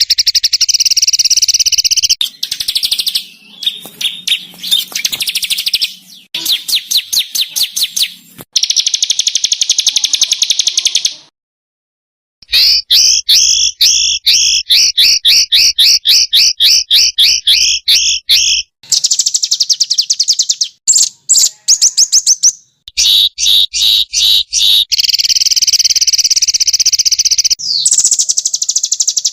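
Small songbirds singing fast, harsh rapid-fire trills and chatters of quickly repeated notes, spliced together as a masteran training recording for caged songbirds. The segments start and stop abruptly, with a brief silence about 11 seconds in.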